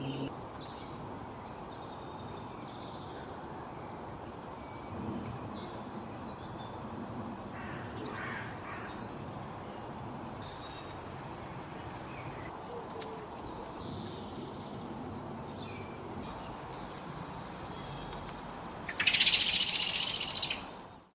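Several wild birds chirping and calling, short high notes and trills over a steady outdoor background hiss. About two seconds from the end comes a much louder, harsh call lasting about a second and a half.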